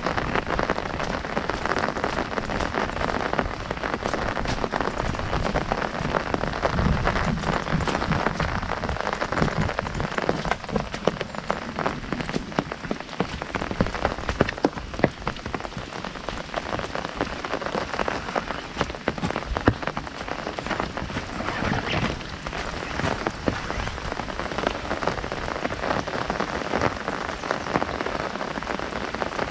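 Heavy rain drumming steadily on an umbrella canopy overhead, a dense patter of drops with occasional louder single drips.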